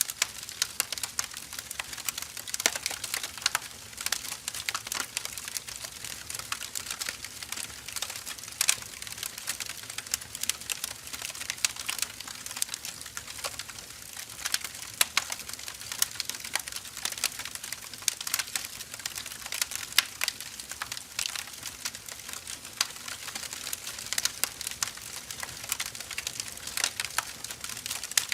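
Firewood burning in a fire, crackling with irregular sharp snaps and pops, many a second, over a faint hiss.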